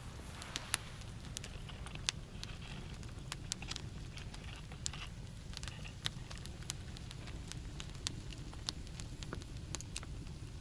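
Campfire crackling, a birch stump burning on small branches, with irregular sharp pops over a low steady rumble.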